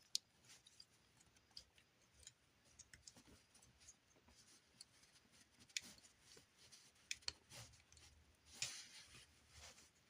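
Faint clicks and short scrapes of hard plastic Transformers figure parts being handled and fitted, a 3D-printed arm piece among them, with a longer scrape near the end.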